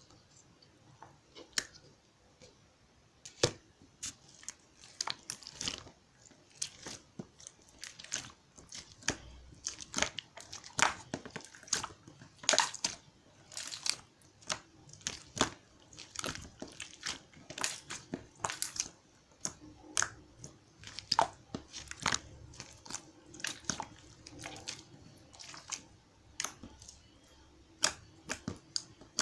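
Irregular sharp clicks and crackles close to the microphone, one to three a second, with no steady sound between them.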